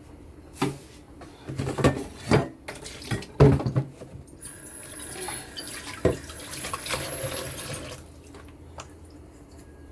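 Several sharp knocks of pots and pans in the first few seconds, then a kitchen tap running into the sink for about three and a half seconds before it is shut off.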